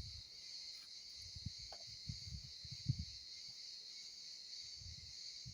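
Steady high chirring of crickets in the background, with scattered soft low thumps and knocks from handling, the strongest about three seconds in.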